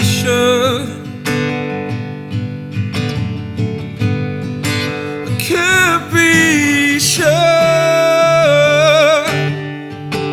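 Acoustic guitar playing with a voice singing wordless, drawn-out notes with vibrato: the closing part of an acoustic song.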